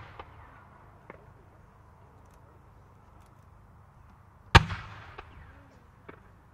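Fireworks: a fan of five comets fired at once with a single loud, sharp report about four and a half seconds in, echoing away. A few faint pops come near the start and shortly after the report.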